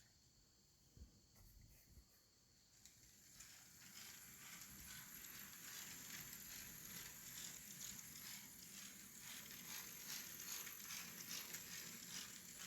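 Faint N scale model locomotive running on the layout: a light motor whir with quick clicking of wheels over the rails, starting about three seconds in after a near-silent start.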